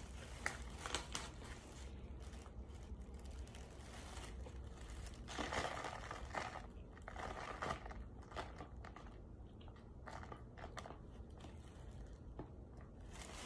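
Chunks of cornstarch being bitten and chewed close to the microphone: irregular dry crunches, thickest about halfway through.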